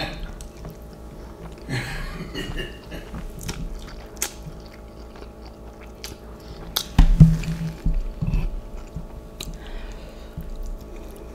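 Close-miked chewing of spicy instant ramen noodles (Samyang ghost pepper noodles), with scattered sharp wet clicks and a louder stretch about seven seconds in.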